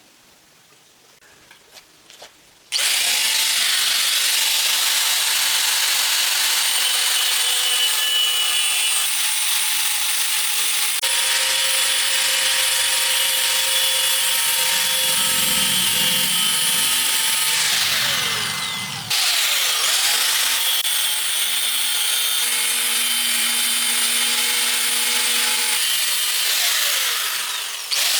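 A power tool cutting or grinding with a steady sawing noise. It starts about three seconds in, stops briefly about two-thirds of the way through, then runs on again.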